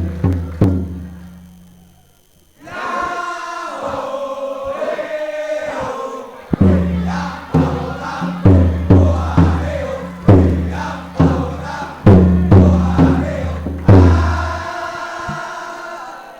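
Male choir singing in unison with a low accompaniment. After a short pause the voices come in alone. A few seconds later heavy low beats join, roughly every half second to a second, under the singing, and then the music fades out near the end.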